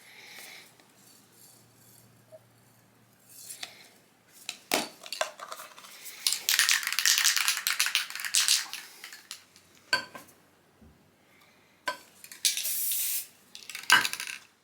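Metal clinks and handling knocks with a spray paint can being rattled. A short hiss of spray comes near the end.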